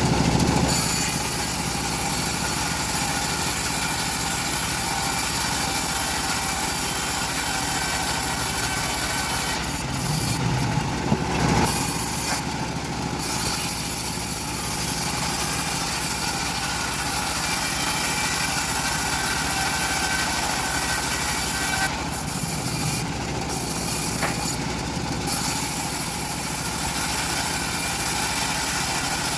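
Engine-driven bandsaw mill running and sawing through an old teak log: a steady engine drone under the high hiss of the blade in the wood. The hiss drops out briefly a few times, once near the middle and again later.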